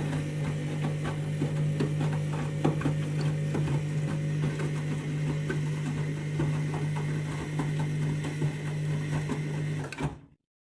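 Candy washing machine mid-wash: a steady motor hum with irregular clicking and knocking from the tumbling drum and load. The sound cuts off suddenly near the end.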